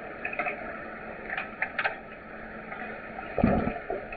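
Underwater hockey play in a pool: a few short, sharp clicks and knocks in the first two seconds, then a loud low thump about three and a half seconds in, over a steady watery hiss.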